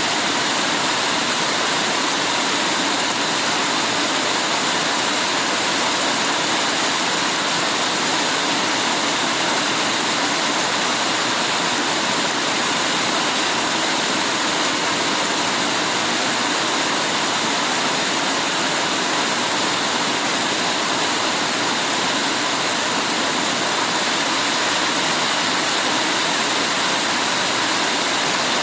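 Heavy rain falling steadily, a dense, even hiss with no single drops or thunder standing out.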